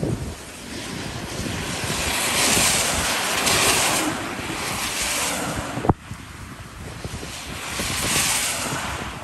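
Tropical-storm wind gusting hard across the microphone, surging and easing, with surf behind it. A sharp thump a little before six seconds in, after which the wind noise drops suddenly before building again.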